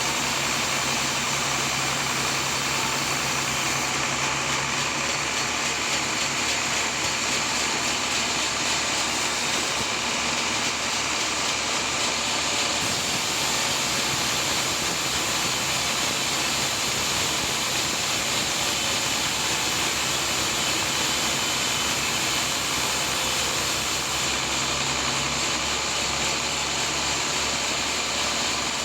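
Sawmill machinery running steadily: a continuous mechanical noise with a low hum under it that fades near the end.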